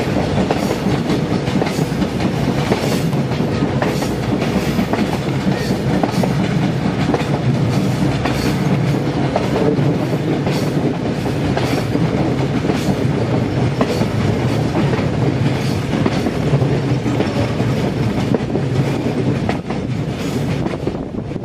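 TAZARA passenger train running, heard from aboard: a steady rumble of coaches and wheels, with repeated clicks of the wheels over the rail joints.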